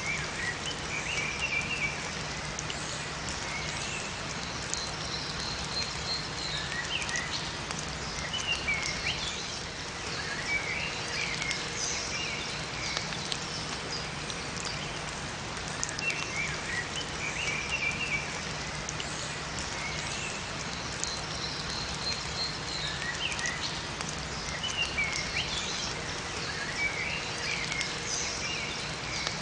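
Steady rain falling in a forest, with small songbirds chirping in short bursts of high notes every few seconds.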